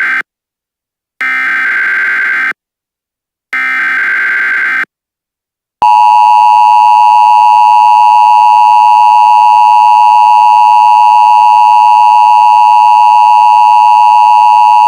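Emergency Alert System SAME header: the tail of one burst of warbling data tones, then two more bursts, each about a second long with a second of silence between. About six seconds in, a loud, steady EAS attention tone starts, the signal that an emergency warning message follows.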